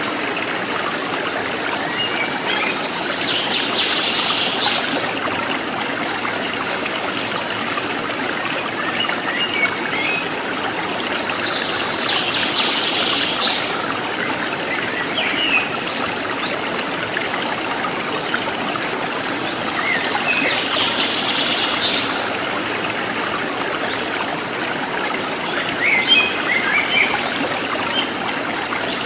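Forest stream trickling and babbling steadily, with wild birds calling over it: a high thin held whistle near the start and again about six seconds in, and short bursts of chirping every few seconds, the liveliest near the end.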